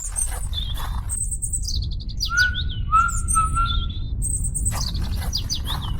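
Several birds chirping and singing, with short rapid chirps and a few clear whistled notes, over a steady low rumble.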